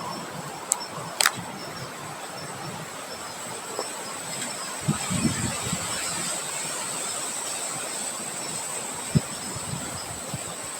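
Outdoor nature ambience: a steady hiss with a high, constant insect note over it, two sharp clicks about a second in, and low thumps of wind on the microphone about five and nine seconds in.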